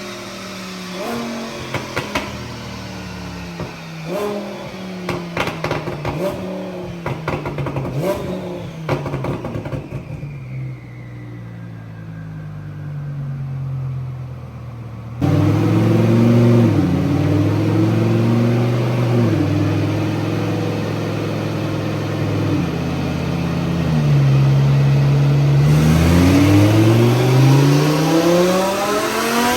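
Twin-turbo Audi R8 V10 engine running on a chassis dyno. It crackles and pops through the first ten seconds, drops away with falling revs, then comes back loud with the pitch stepping up and down, and near the end begins a steadily rising full-throttle pull.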